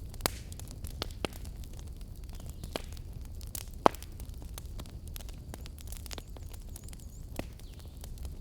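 Wood fire burning with a steady low rumble and irregular sharp crackles and pops, one pop about four seconds in louder than the rest.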